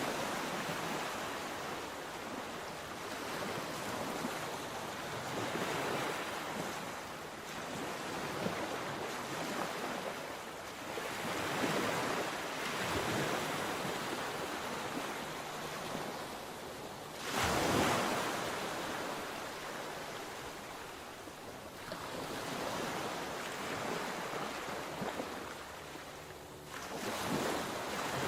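Sea waves breaking and washing up the shore. The rushing swells and ebbs every few seconds, with one louder crash a little past the middle.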